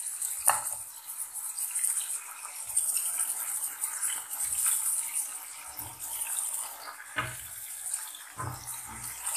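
Chicken pieces sizzling steadily in hot oil in a wok while tomato halves are dropped in, with a few soft thuds.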